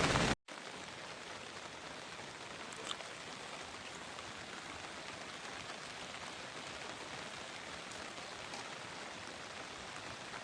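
Heavy rain, a loud even hiss, cuts off abruptly about half a second in. A steady, quieter rain hiss follows, with a single small tap about three seconds in.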